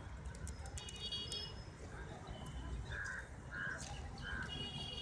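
Birds calling outdoors: scattered short high chirps early on, then three short calls in a row in the second half, over a low steady background rumble.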